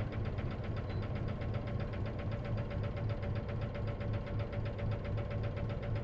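Isuzu KC-LV380N city bus's diesel engine running, heard from inside the cabin, with a steady, rapid rattle of about ten even ticks a second. This is the bus's abnormal noise, which the owner suspects can happen on manual-transmission buses.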